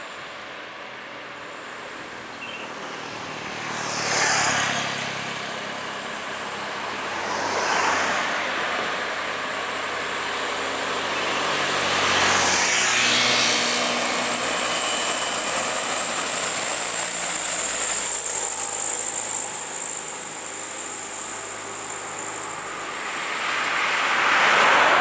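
Road traffic on a steep highway climb: heavy trucks and other vehicles passing close one after another, each pass swelling and fading, about four passes. Through the middle stretch a heavy truck's engine drones steadily.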